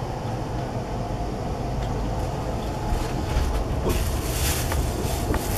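Passenger train running, heard from inside the carriage: a steady low rumble of wheels on the rails with a few light clicks. About four seconds in, a louder rushing hiss comes in as the train runs close alongside a concrete wall.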